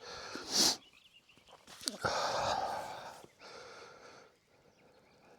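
A person blowing steadily into a tinder bundle to bring a bow-drill coal up to flame, in three long breaths; the second is the longest.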